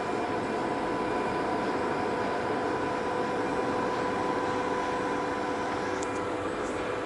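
Steady mechanical hum with a constant whine running through it, from workshop machinery around a CNC router, with a couple of faint ticks about six seconds in.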